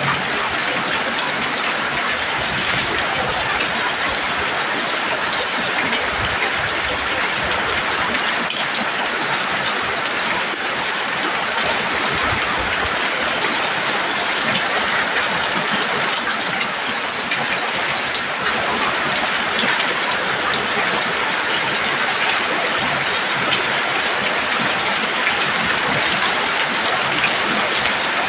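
Heavy rain falling steadily on a roof, a dense even hiss that holds at the same level throughout.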